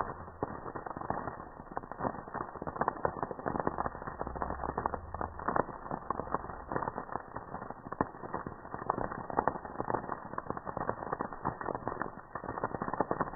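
Campfire crackling, with a dense, irregular run of wood pops and snaps.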